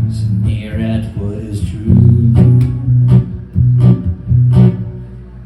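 Acoustic guitar strumming the closing chords of a song: a handful of hard strummed chords, then the last one dying away near the end.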